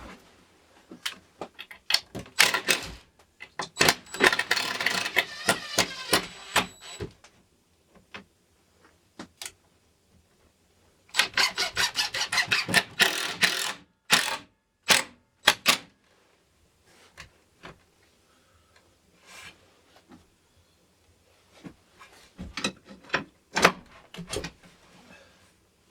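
Screws being driven into wood with a power driver in two bursts of rapid clicking, each about three seconds long, with scattered knocks and clicks from handling the hardware between them.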